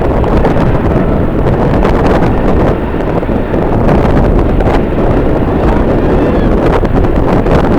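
Strong wind buffeting the microphone: a loud, continuous rumble with constant small gusts.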